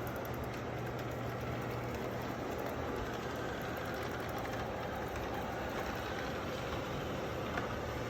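Robot vacuum cleaner running steadily: an even motor noise with a low, steady hum beneath it.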